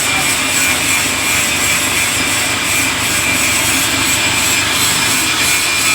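Mahindra DI 475 tractor's diesel engine running steadily, with a thin high whine over the engine noise.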